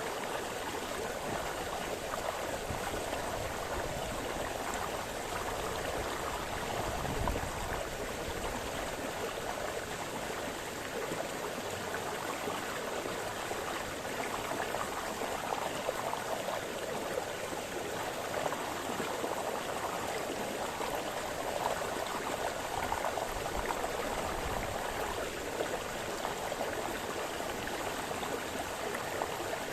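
A small forest brook splashing and babbling over stones, a steady continuous rush of flowing water.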